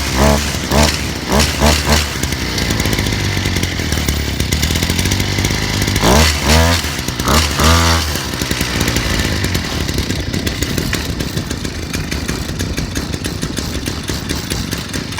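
Small dirt bike engine running and revved in short blips: a cluster of quick revs at the start and another about six to eight seconds in, then settling to a steady idle.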